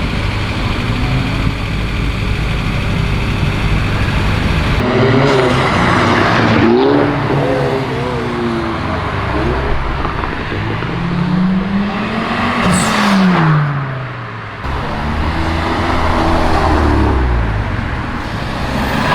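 Performance cars revving and accelerating as they drive past one after another, their engine notes rising and falling. One car sweeps past about two-thirds of the way through, its pitch rising and then dropping.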